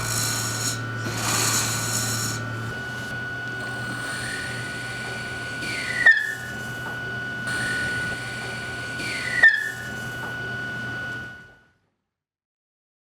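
Wood-turning lathe running with a steady hum and whine while a tool works the spinning wood: a hiss of cutting in the first few seconds, and two sharp squeals with a click about six and nine and a half seconds in. The lathe stops about eleven and a half seconds in.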